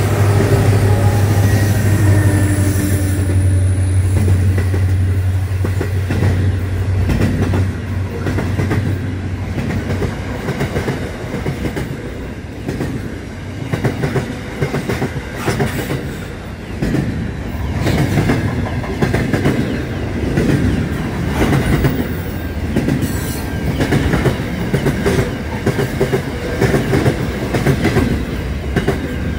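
Aurizon diesel freight train passing close by: the locomotive's engine gives a strong low drone that fades after about ten seconds, and then the container wagons roll past with repeated clacks of wheels on the rails.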